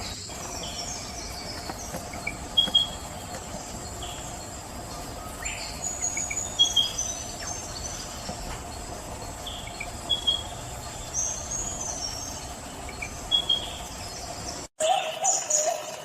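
Birds giving short, repeated chirps every second or so over a steady, faint, high-pitched background hum. Near the end the sound cuts out for a moment and different, louder bird calls begin.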